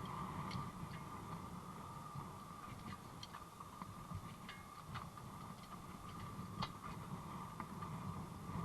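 Scattered light clicks and taps, one a little louder than the rest about two-thirds of the way through, over a steady rushing background noise.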